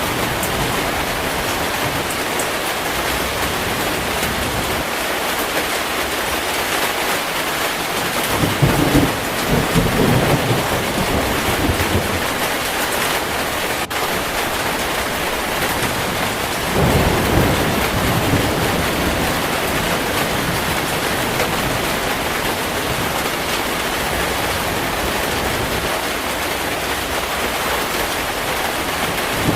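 Heavy rain falling steadily, with rolls of thunder rumbling twice, once about a third of the way in and again just past the middle.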